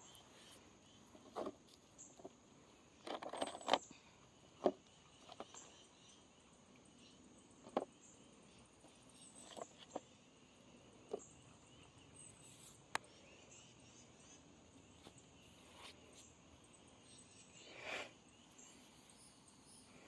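Quiet outdoor ambience: a faint, steady, high insect trill, broken by scattered soft clicks and knocks, with a small cluster of them a few seconds in.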